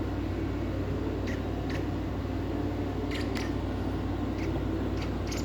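A steady low room hum with a handful of short, faint, high chirps from a baby bird being hand-fed.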